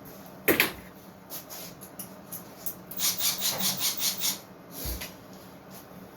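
Milwaukee M12 FUEL SURGE hydraulic impact driver driving a pocket screw into wood: a sharp knock about half a second in, then about a second and a half of rapid, raspy clicking, roughly ten a second, starting about three seconds in.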